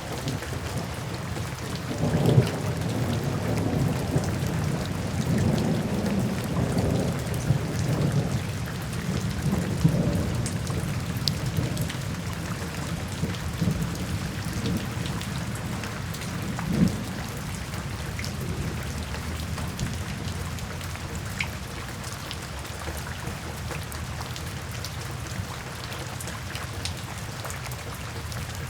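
Steady rain falling into puddles and standing water, with thunder rumbling through the first ten seconds or so and a shorter rumble at about seventeen seconds.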